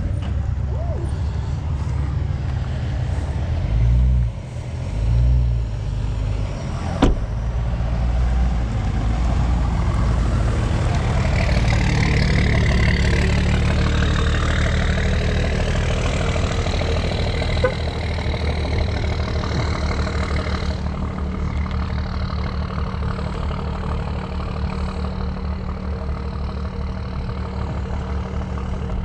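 Truck engine idling with a steady low pulse. It swells briefly twice about four to five seconds in, a sharp click comes a couple of seconds later, and the engine is louder for several seconds in the middle.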